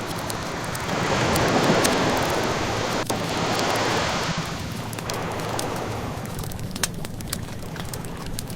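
An ocean wave washing in, swelling about a second in and slowly ebbing away, with the scattered small pops and crackles of a wood fire over it.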